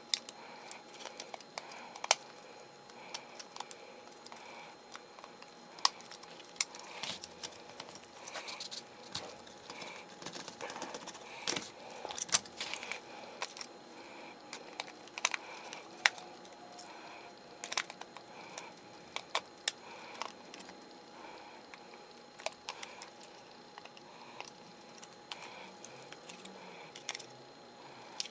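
Scattered light clicks and taps of small plastic and metal drill parts being handled during a cordless drill motor replacement.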